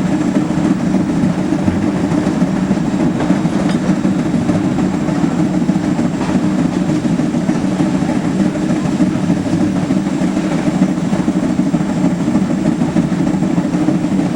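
Heisler geared steam locomotive working as it pushes a passenger train: a loud, steady, unbroken running noise with a fast flutter and no pauses.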